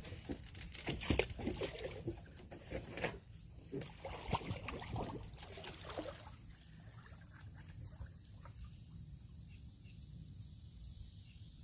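Pool water splashing and trickling in irregular bursts for about six seconds, then settling to a quieter, steady background.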